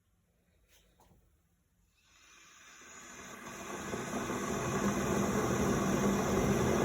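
Kitfort KT-601 electric kettle heating water: after a couple of quiet seconds, a hiss starts and grows steadily louder as the element warms the water toward the boil.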